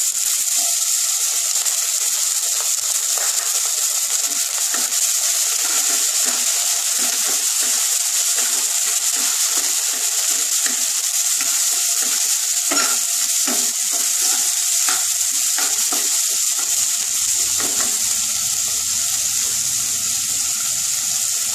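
Onions and chopped tomato sizzling steadily in hot mustard oil in a nonstick frying pan, with a wooden spatula scraping and tapping against the pan as they are stirred.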